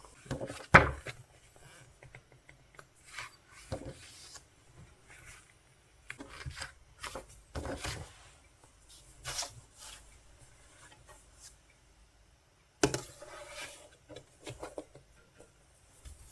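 Intermittent handling noises as album packaging is unboxed by hand: rubbing and scraping of card and plastic, with light knocks, the sharpest about a second in and another near the end.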